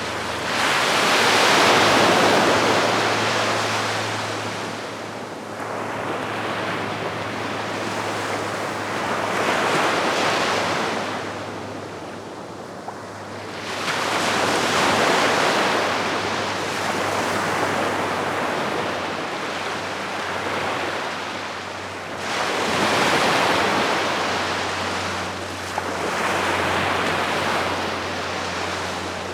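Calm sea waves washing onto the shore, the surf swelling and ebbing about five times, with a faint steady low hum underneath.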